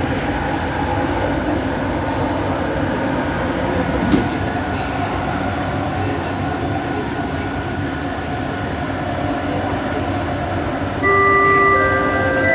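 Bombardier Innovia ART 200 metro train running, heard from inside the car: a steady rumble with a faint motor hum and a single click about four seconds in. Near the end, an electronic chime of several held tones sounds in two steps.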